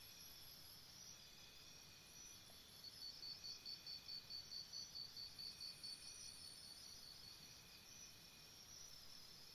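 Crickets chirping faintly in an even rhythm, about three chirps a second, over a low background hiss.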